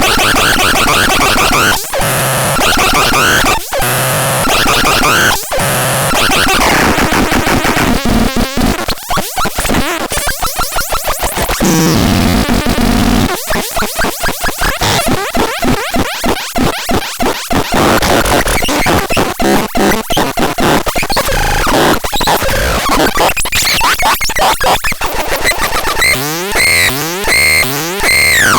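Harsh electronic noise from a synthesizer-type noise instrument, glitching and stuttering. From about 8 s to 18 s it is chopped into fast rapid-fire pulses, and near the end it breaks into a run of repeated sweeping tones.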